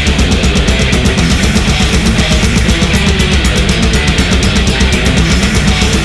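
Death/thrash metal recording: loud distorted guitar and bass over fast, even drumming at about eight strokes a second.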